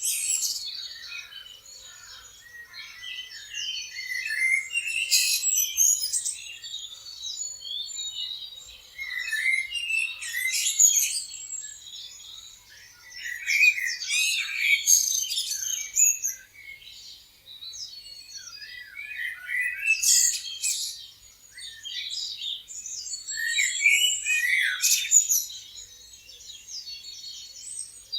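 Several songbirds chirping and singing together, the calls overlapping in rising and falling swells every few seconds.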